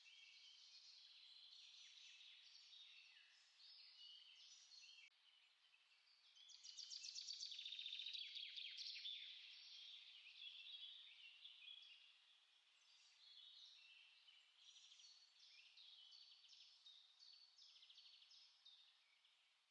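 Faint chorus of small songbirds, many short high chirps and phrases overlapping, with one louder rapid trill near the middle.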